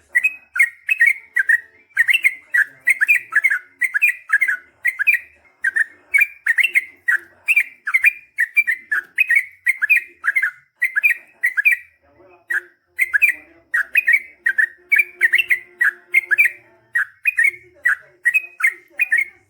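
Yellow-vented bulbul (trucukan) singing a long, fast run of short falling whistled notes, two to three a second, with a brief break about twelve seconds in.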